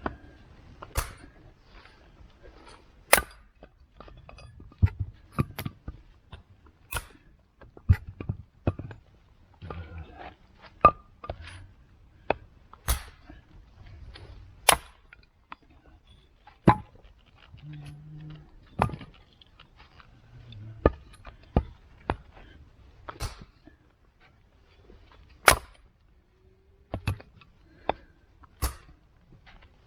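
Sharp knocks or cracks at irregular intervals, roughly one every one to two seconds, some much louder than others, over a faint low rumble.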